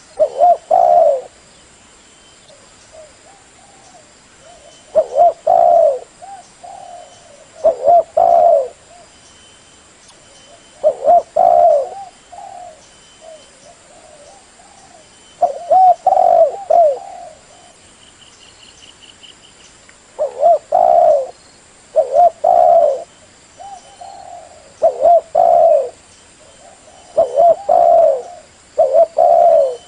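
Spotted dove (tekukur) cooing: about ten loud, repeated coo phrases, each a second or so long and a few seconds apart. This is the call used as a lure sound to attract the birds.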